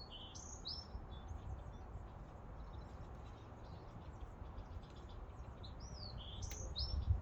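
A songbird singing a short phrase of high, swooping whistled notes, repeated about six seconds later, over a steady low rumble.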